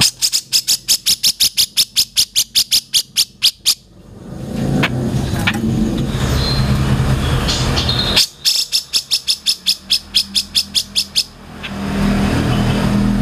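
A songbird gives two fast runs of sharp, identical high notes, about five or six a second. Each run lasts three to four seconds, with a pause of about four seconds between them. A low, steady rumble like traffic sits underneath and fills the gap.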